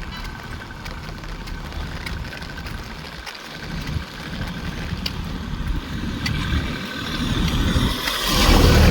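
A motor vehicle's engine running with a low rumble, joined by a loud rushing swell near the end.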